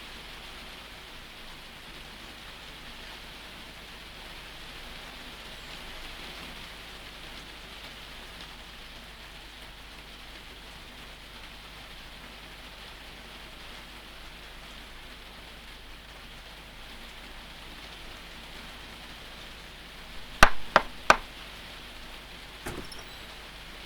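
Steady rain falling. Near the end, three quick sharp knocks on a door, followed a moment later by a fainter click.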